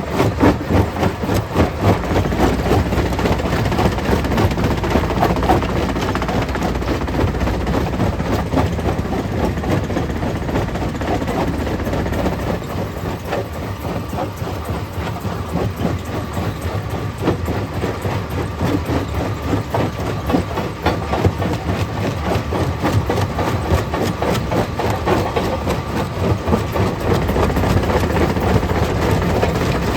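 Stone crusher plant running, with dense irregular clattering and knocking of rock over a low machinery rumble.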